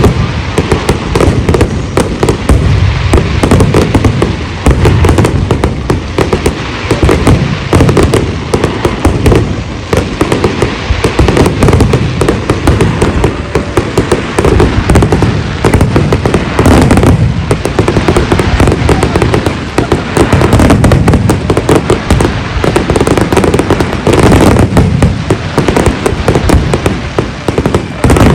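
Large aerial fireworks display: a dense, continuous barrage of shell bursts and crackling bangs with booming low rumble.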